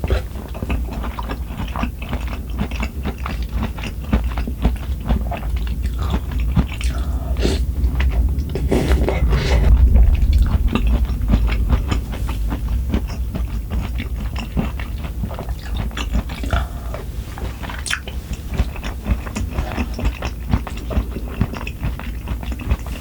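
A person chewing food close to the microphone: continuous irregular mouth clicks and wet chewing with occasional crunches, as in a mukbang of braised kimchi and rice.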